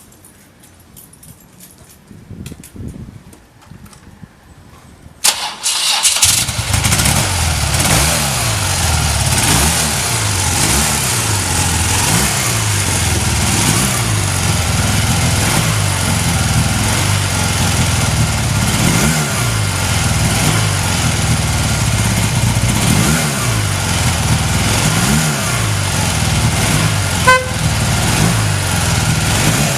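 BMW R100RS air-cooled flat-twin (boxer) engine starting after a few seconds of faint clicks, catching suddenly about five seconds in and then idling steadily through its mufflers. The engine speed rises and falls briefly a few times, and a short high beep sounds near the end.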